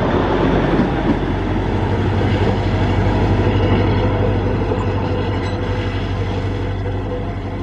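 Diesel electric multiple unit (DEMU) train running as it departs: its diesel engine drones steadily over dense wheel-and-rail noise, getting a little louder to about halfway and then slowly fading.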